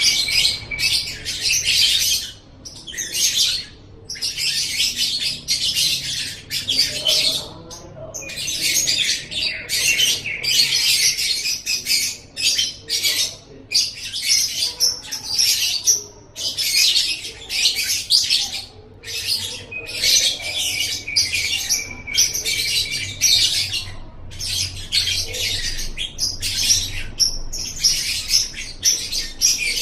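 Lovebird singing: runs of rapid, high-pitched chattering and twittering, each lasting a second or two, broken by short pauses.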